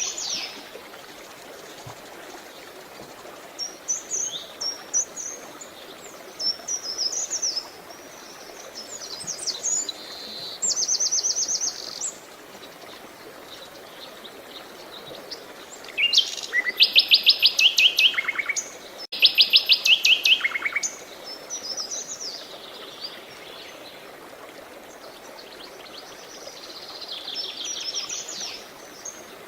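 Songbirds singing in short phrases of rapid trills and chirps, the loudest two fast trills a little past the middle, over a steady background rush of running water.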